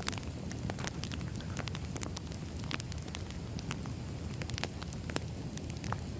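Firewood burning, crackling with many sharp, irregular pops over a steady low rumble.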